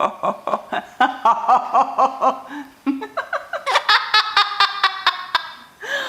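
Laughter in quick, rapid bursts, with a short break about three seconds in.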